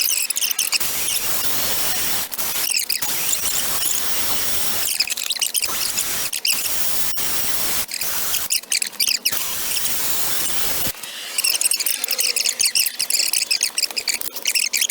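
High-speed rotary tool grinding the ports of an aluminum intake manifold, the burr cutting in short passes with a scratchy, high-pitched hiss and a thin whine. The cutting stops and restarts several times.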